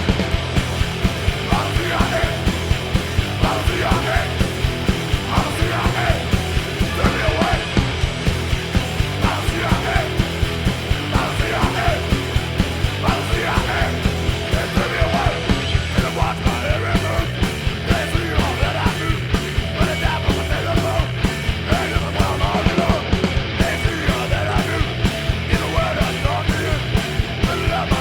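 Punk rock song: distorted guitar, bass and a fast, steady drum beat under shouted vocals.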